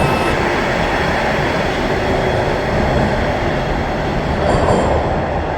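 TTC rail train running along the track: a steady, loud rumble and rattle of wheels on rails.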